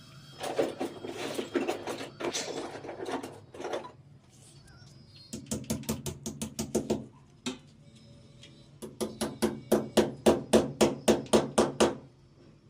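Repeated hammer blows in three bursts. The last is a fast run of about a dozen strikes, roughly four a second.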